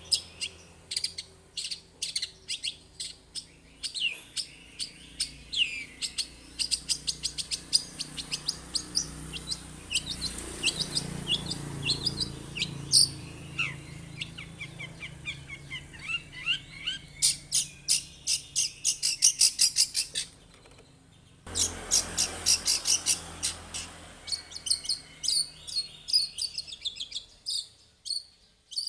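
Long-tailed shrike (cendet) singing a fast, varied song of sharp chirps, sweeping whistled notes and rapid chattering trills. It breaks off for about a second two-thirds of the way in, then resumes.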